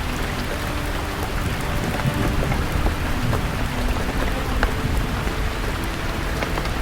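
Steady rain falling on leaves, with individual drops tapping and a low rumble of distant thunder underneath.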